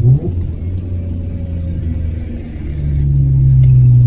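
Mazda RX-7 FD3S's turbocharged 13B rotary engine on a track lap, heard from inside the car. There is a quick rev blip right at the start, then a quieter stretch off the throttle, and the engine comes back on the throttle about three seconds in, running loud and steady.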